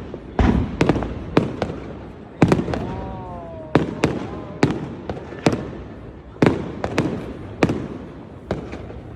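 Aerial fireworks bursting overhead: a rapid, irregular string of sharp bangs, about a dozen and a half, each trailing off in a fading rumble.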